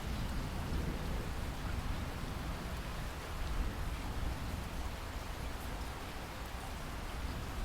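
Steady rain falling in a rainforest, an even hiss with a low rumble underneath.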